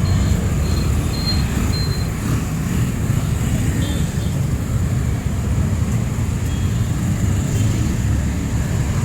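City street traffic: a steady low rumble of motor vehicles on the road, with a few short high beeps in the first two seconds.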